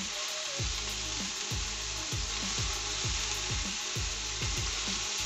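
Chopped vegetables sizzling in sunflower oil in a large steel pot, a steady frying hiss, as cooked noodles are dropped in by hand.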